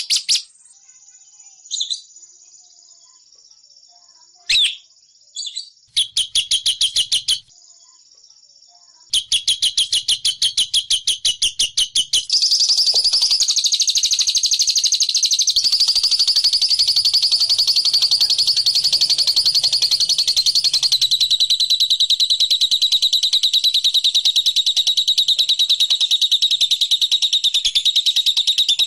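Lovebird 'ngekek' song: rapid, high chattering trills, first in short bursts a second or two long. From about twelve seconds in they run together into one long unbroken trill.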